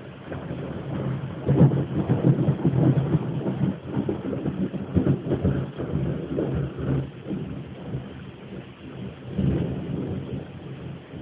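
Thunder rumbling and rolling. It builds about a second in to a loud crackling peak, rumbles on unevenly and swells again near the end. It is heard through a phone's low-quality microphone.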